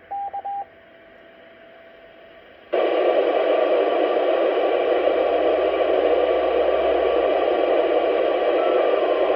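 Radio receiver output from an amateur radio repeater: three quick beeps and a short steady tone, then, a little under three seconds in, loud steady static hiss as the squelch opens with no voice on the channel.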